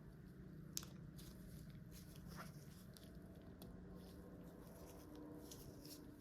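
Faint, scattered clicks and small rustles of LEGO plastic pieces being handled during assembly, with one sharper click about a second in, over a low steady hum.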